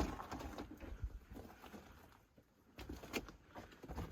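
Footsteps crunching and scuffing on loose rock and fallen debris, uneven steps with a sharp one at the start and a cluster about three seconds in.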